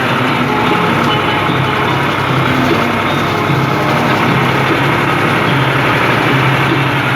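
New Holland 55-56 S tractor's diesel engine running steadily, loud and close.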